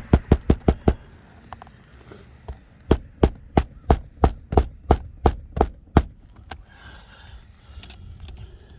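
Hammer blows, evenly spaced at about three a second, in two runs: a short run at the start and about ten strikes from about three to six seconds in.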